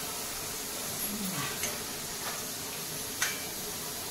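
Masala of tomatoes and chillies gently sizzling as it fries in oil in a steel kadhai, with a few light clicks of a metal spoon against the pan, the sharpest about three seconds in.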